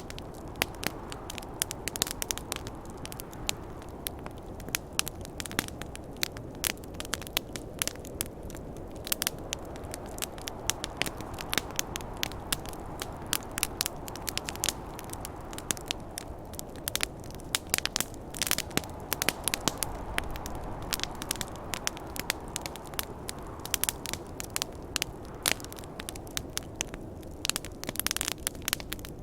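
Campfire crackling, with many sharp irregular pops and snaps of burning wood over a steady low rush of the flames and wind.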